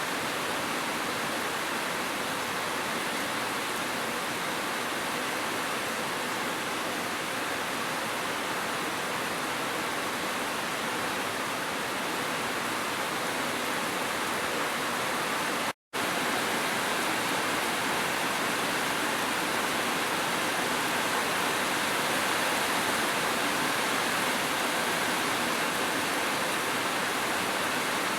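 Steady rushing of falling water, gentle rain and a waterfall, as an even hiss, with a split-second gap of silence a little past halfway through.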